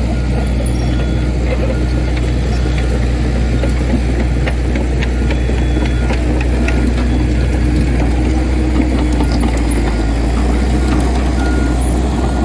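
Dump truck's diesel engine running steadily, with scattered small clicks.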